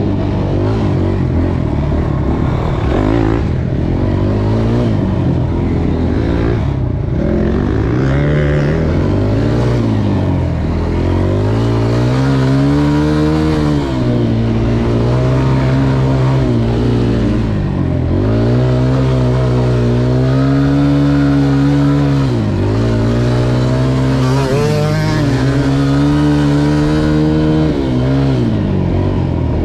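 Dirt bike engine being ridden, its pitch repeatedly rising as it accelerates and dropping as the throttle is rolled off, every few seconds.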